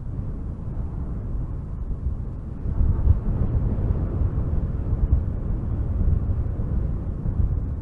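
Strong wind gusting through spruce trees: a steady deep rumble that swells with a gust about three seconds in.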